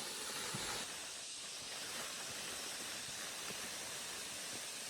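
Steady, even hiss of background noise with a few faint, soft low knocks.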